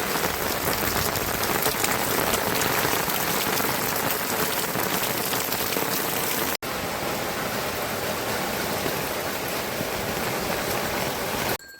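Steady heavy rain pattering on a surface, a dense even hiss of many drops, with a momentary break about six and a half seconds in and a sudden stop just before the end.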